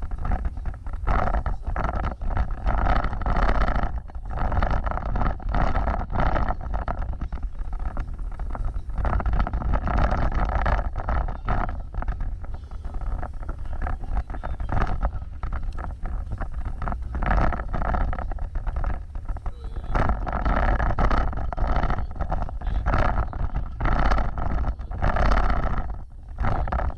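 An off-road vehicle driving over rough ground, with a steady low rumble, frequent jolts and knocks, and wind buffeting the microphone.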